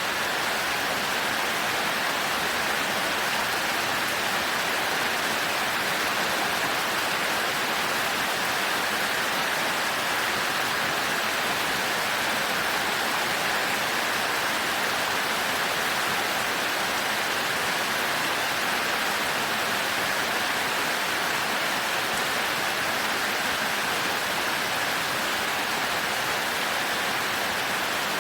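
Heavy rain falling steadily, an even, unbroken wash of noise with no thunder.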